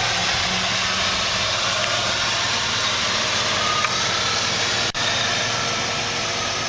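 2002 Jeep Liberty's 3.7-litre V6 idling steadily, with a momentary dropout in the sound about five seconds in.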